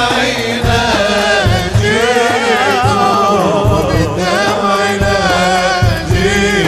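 An Arabic nasheed: a solo voice sings a long, wavering, ornamented melodic line over a low, pulsing drum beat.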